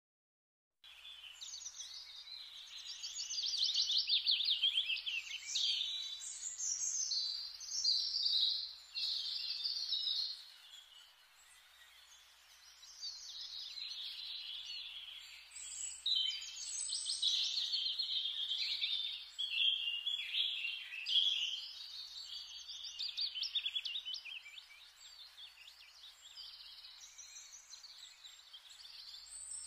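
Birds chirping and singing in rapid, overlapping high-pitched phrases, starting about a second in and rising and falling in loudness.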